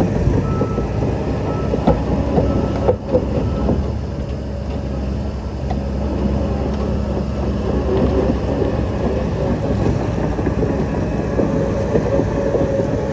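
Shantui DH17-C3 bulldozer's diesel engine running with a steady low rumble, its steel tracks clanking and rattling irregularly as it moves.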